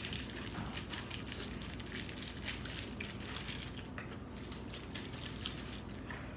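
Close-miked chewing of a sub sandwich: wet mouth sounds with many small clicks and crackles, steady and fairly quiet.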